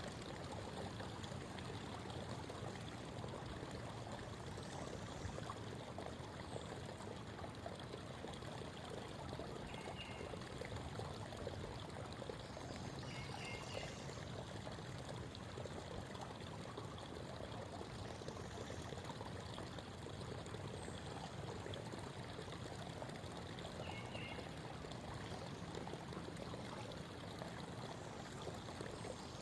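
Creek babbling, a steady flow of running water, with a few faint short bird chirps scattered through it.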